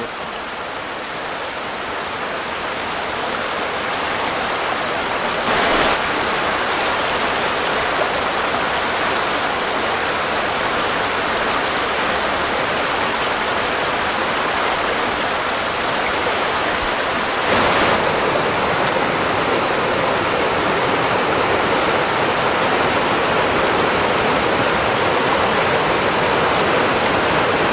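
Small creek rapids and waterfalls pouring into a pool, a steady rush of water that grows a little louder over the first few seconds.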